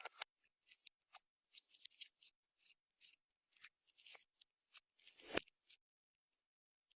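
Clear slime being worked by hand, giving a run of short, faint wet clicks and pops with one louder squelch about five seconds in, then stopping.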